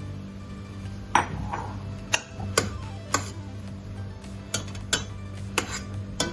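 A cooking utensil knocking and scraping against a pan while fried rice is stirred and mixed, giving about ten sharp, irregularly spaced clacks over a steady low hum.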